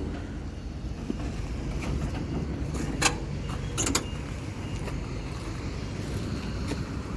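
A steady low rumble of a vehicle running, with two short clanks about three and four seconds in.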